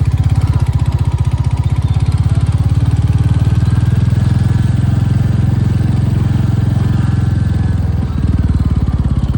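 A motor engine running steadily, with a fast, even pulse and a brief dip about eight seconds in.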